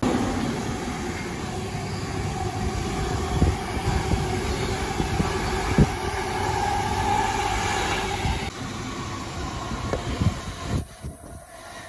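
LNER Azuma high-speed train passing through on the main line, a steady rumble with a few sharp clicks from its wheels. It dies away near the end.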